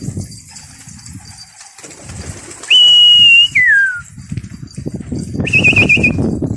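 Two loud whistles aimed at a flock of pigeons: a long steady one that drops in pitch at its end, then a shorter warbling one, over a low rustle of the pigeons' wings.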